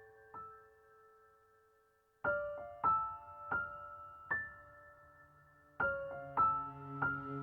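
Soft background piano music: single notes ring out and fade, a brief pause, then a slow phrase of notes resumes, with a low sustained tone joining near the end.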